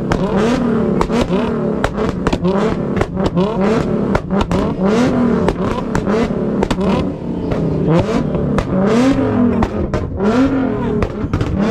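Car engine revved over and over, the pitch rising and falling in quick blips under a second each, with sharp exhaust pops and crackles between the revs.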